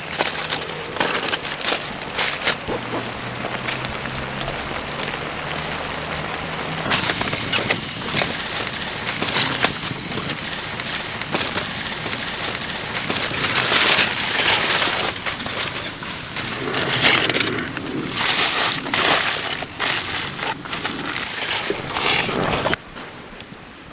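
Wood fire crackling and snapping, with many sharp cracks over a steady hiss. The sound drops off suddenly near the end.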